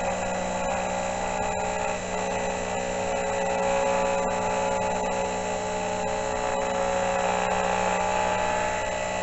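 Amadeal XJ12 mini milling machine running with a steady whine, its cutter taking a light finishing cut of a few hundredths of a millimetre.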